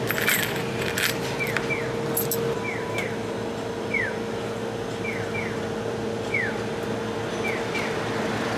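Short descending chirps, repeated singly and in pairs about once a second, over a steady low hum and background noise. A few sharp clicks come in the first two seconds.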